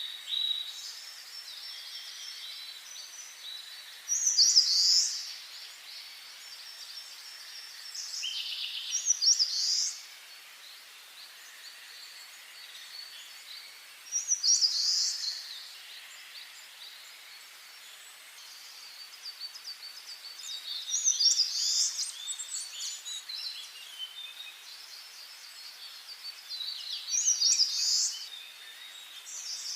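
Wild songbirds singing: a loud song phrase about every five to six seconds, with softer chirps and calls between.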